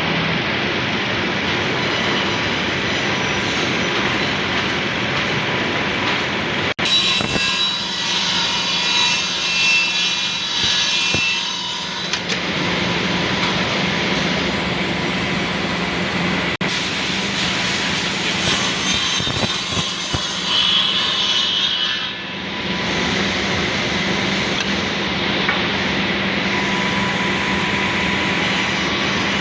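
Automatic double-end cutting and milling machine for wood running steadily, its saw and milling cutters spinning with a hum. It makes changing, ringing tones where the cutters work through wood. The sound changes abruptly twice.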